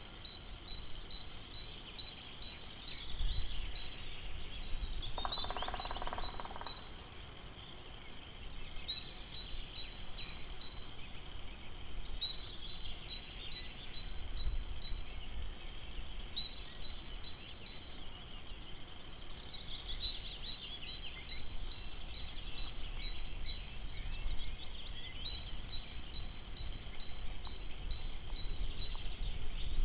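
Bird calling in runs of rapid, evenly repeated high notes, each run about two seconds long and coming back every few seconds, over a low rumble of wind on the microphone.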